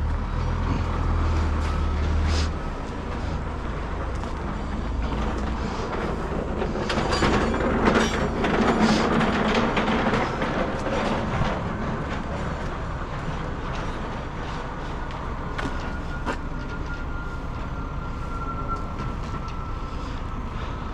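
Heavy diesel machinery running with a steady rumble, heaviest for the first couple of seconds, with scattered knocks and clanks. A faint whine slowly drops in pitch in the second half.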